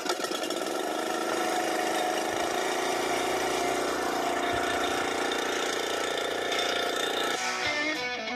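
Swisher walk-behind brush cutter's small engine running steadily on its rebuilt carburetor. About seven and a half seconds in it gives way to guitar music.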